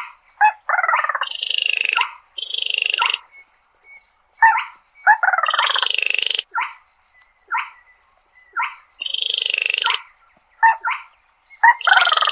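Baillon's crake calling repeatedly: dry, frog-like rattles about a second long, each a rapid run of pulses, alternating with short single notes.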